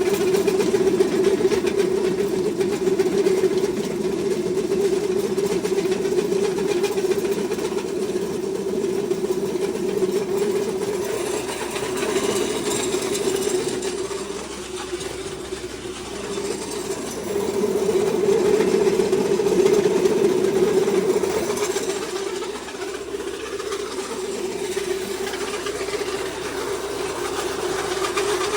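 Pellet feed mill running while pressing a corn, barley and oat mix into feed pellets, a steady machine hum that sags for a few seconds about halfway and again later before picking back up.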